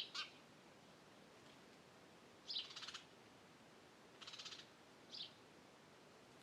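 Wild birds calling against a faint, steady background: a few short high chirps and two brief fast rattling trills, one about two and a half seconds in and one about four seconds in.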